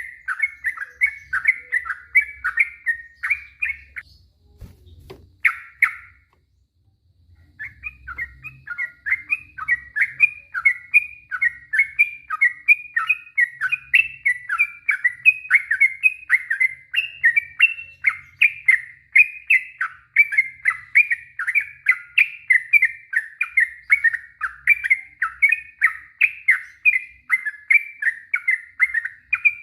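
Yellow-vented bulbul singing a long, fast string of short, bubbly chirping notes, several a second. It breaks off for about three seconds near the start, then runs on without a pause.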